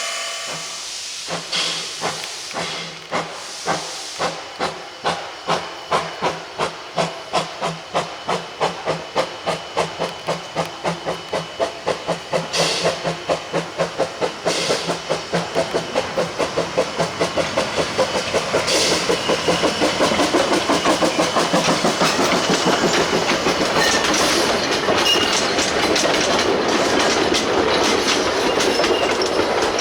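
Narrow-gauge steam locomotive pulling away from a stand: a whistle cuts off about a second in, then the exhaust chuffs start at about one a second and steadily quicken until they run together, with the clickety-clack of the wheels near the end.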